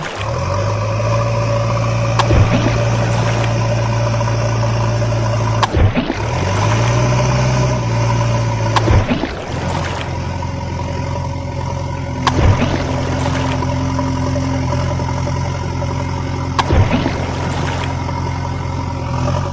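Steady engine-like hum of a toy construction vehicle at work. Its pitch shifts a couple of times, and sharp clicks come every few seconds.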